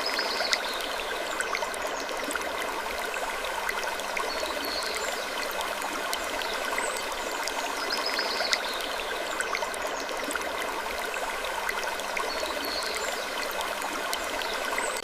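Steady rushing, stream-like noise with a short, high wooden creak coming back about every three seconds and scattered small ticks.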